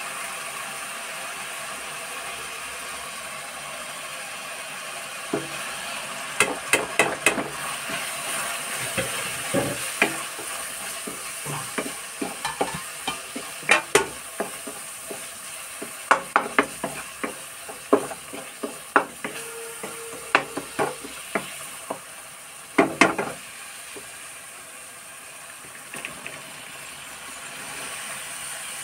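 Tomato masala frying in a steel kadai, a steady sizzle throughout. Through the middle, a wooden spoon scrapes and knocks against the pan in quick runs of clicks as the masala is stirred.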